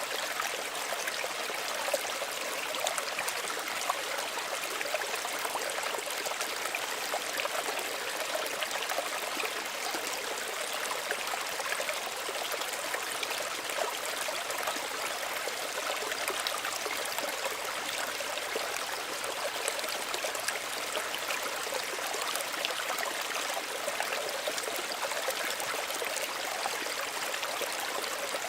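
Small stream of running water flowing steadily, a gentle babble of many small splashes and trickles, bright and without much low rumble.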